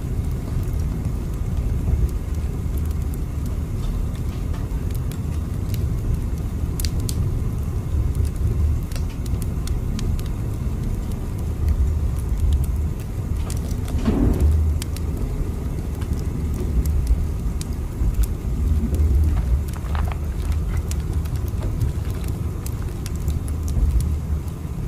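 Steady low rumble of a train running along the track, with scattered faint crackles over it and a brief tone about 14 seconds in.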